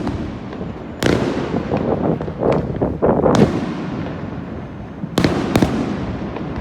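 Aerial fireworks shells bursting overhead. Sharp bangs come at the start, about a second in, again after about three and a half seconds, and as a quick pair near the end, with crackling and rumbling echo between them.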